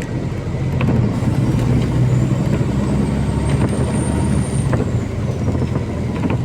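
MAZ-203 city bus on the move: a steady low engine drone with clicks and rattles. A faint high whine rises for a couple of seconds and then falls away.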